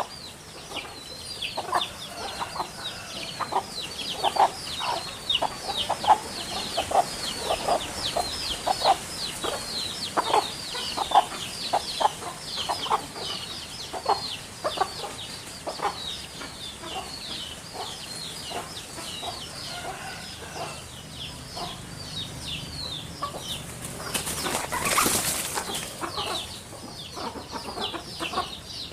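Backyard fowl: chickens clucking with a dense run of short, high, falling chirps over the top. About 25 seconds in there is a brief rushing burst, typical of wing flapping.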